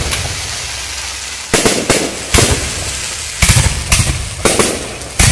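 Aerial fireworks going off: a run of about seven sharp bangs, each fading out over a fraction of a second.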